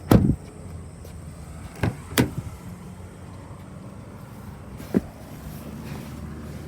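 A car door shutting with a heavy thud, then two quick latch clicks about two seconds in and another click about five seconds in, over a steady low traffic rumble.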